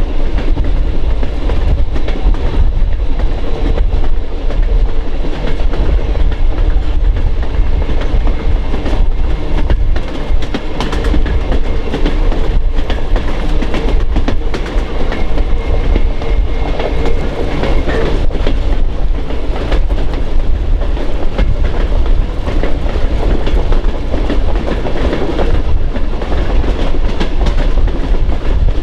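Train rolling along the rails: a steady loud rumble with frequent wheel clicks over the track.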